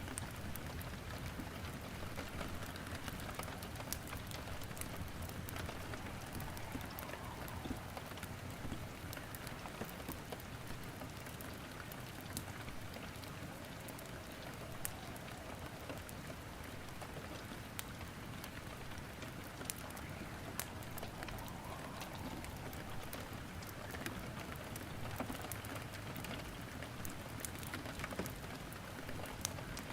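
Steady rain with wood crackling in a fireplace: an even hiss with scattered sharp pops.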